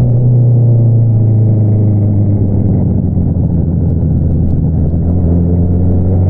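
2022 Honda CBR650R's inline-four engine running through an Akrapovič single-outlet exhaust, holding steady revs.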